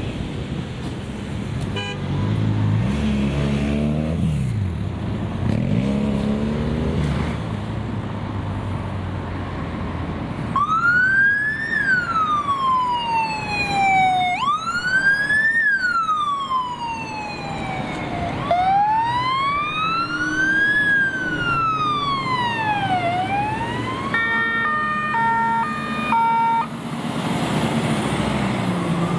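Emergency vehicle sirens on a response run: a wailing siren sweeps slowly up and down several times, then switches briefly to a rapid alternating tone pattern before wailing again near the end. Under it, vehicle engines run, rising in pitch twice in the first several seconds as they accelerate.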